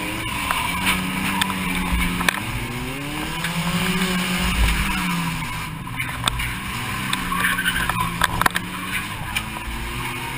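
Car engine heard from inside the cabin, revving up and easing off several times as the car accelerates and lifts around the course, with scattered sharp knocks and rattles.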